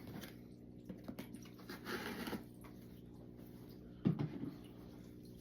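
Disinfecting wipe being rubbed over a sneaker and counter by hand: scattered light clicks and taps, a brief rubbing sound about two seconds in, and a knock about four seconds in.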